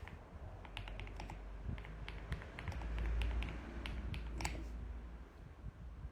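Typing on a mechanical keyboard: irregular keystroke clicks, thinning out after about four and a half seconds, over a low rumble that swells midway.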